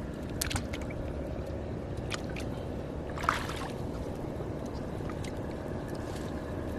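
Water sloshing and splashing around a small boat as a fishing net is handled, with a few sharp knocks and splashes, the loudest about halfway through, over a steady low rumble.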